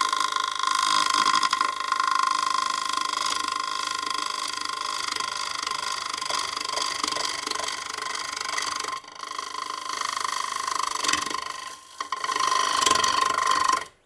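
Bowl gouge cutting a spinning, dried magnolia bowl on the lathe: a steady scraping hiss with a strong ringing tone. It breaks off briefly twice, about nine and twelve seconds in.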